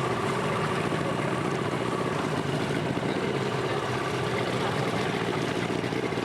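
Outboard motor of a Zodiac raft running at a steady speed, an even engine hum over rushing noise.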